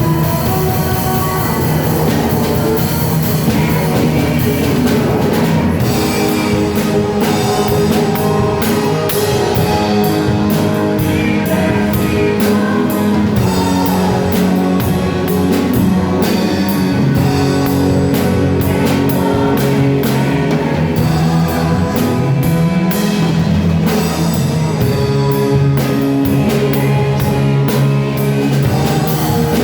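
Live church worship band playing a praise song, with drum kit and guitar keeping a steady beat under held chords.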